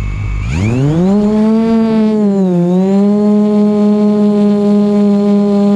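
DJI Mavic Pro quadcopter's motors and propellers whining. The pitch rises about half a second in as the motors speed up, dips briefly, then holds a steady hum. A low wind rumble sits underneath at the start.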